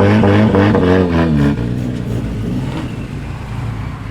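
A car engine revs up and then drops back down about a second and a half in. After that it runs lower and quieter as the car rolls by.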